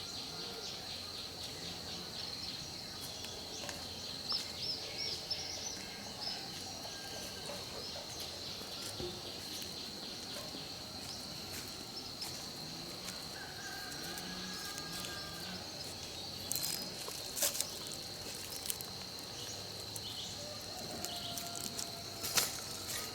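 Outdoor ambience of insects droning on one steady high note, with short bird chirps in a quick series a few seconds in. A few sharp clicks or snaps come in the second half.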